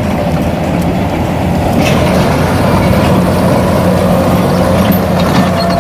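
Heavy truck engine running steadily with a low, even drone.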